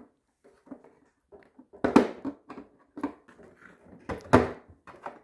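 Handling knocks and clicks from a balsa model aircraft being taken apart by hand, with two louder knocks about two seconds and four and a half seconds in.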